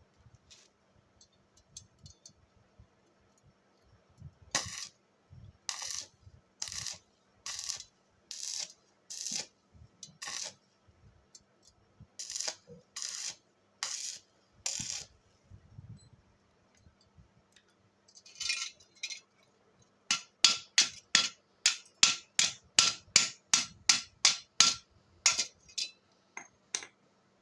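Repeated scraping strokes on metal, each a short rasp: two slow runs of strokes about 0.7 s apart, then a faster run of about three strokes a second near the end.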